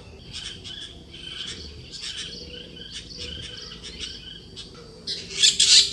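Blue-winged pitta giving a string of short, scratchy calls, with a louder burst of calls starting about five seconds in.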